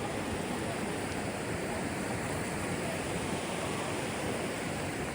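Steady rush of a river's rapids, an even wash of water noise with no breaks.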